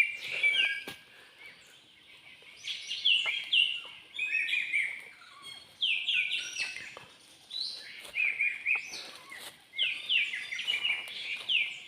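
A songbird, locally called burung langkah, singing close by in repeated phrases of quick, high, falling notes, a phrase every two seconds or so, with a few short clicks between.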